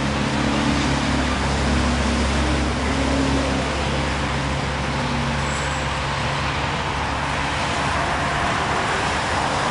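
A motor engine running steadily with a low hum, over a constant hiss. Its higher tones fade out about halfway through.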